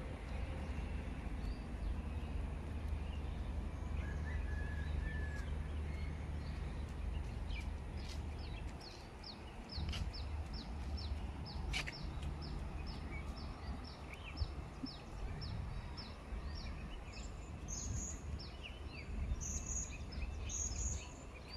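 Birds calling over a steady low rumble: one gives a long run of short, falling notes at about two a second through the middle, and higher chirps join near the end.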